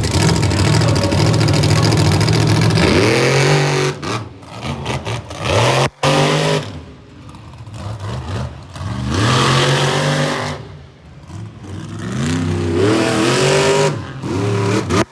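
Monster truck engine running loud, revving up hard and easing off several times as the truck drives, with a sudden brief cut just before the middle.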